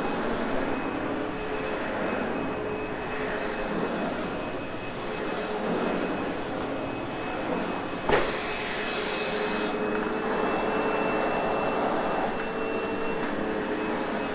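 Sebo X8 upright vacuum cleaner running on carpet, its motor giving a steady whine with a high tone over a rushing airflow. A single sharp knock about eight seconds in.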